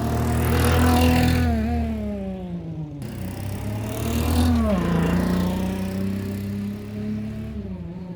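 Synthesized big-bike engine note played through an active-sound speaker fitted to a Honda City Ace, standing in for a multi-cylinder exhaust. It revs up twice, about a second in and again around four and a half seconds, each time falling back to a steady idle-like drone.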